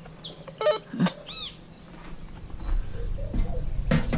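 Short bird chirps and calls, one arching up and down in pitch about a second and a half in, with a few sharp knocks about a second in and again near the end.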